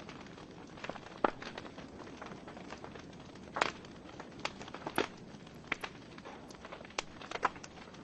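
Wood logs burning in a fireplace, crackling with irregular sharp pops and snaps over a steady soft hiss of the flames.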